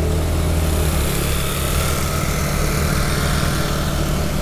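Small single-cylinder four-stroke motorcycle engine running steadily at low speed while riding, with wind noise on the microphone.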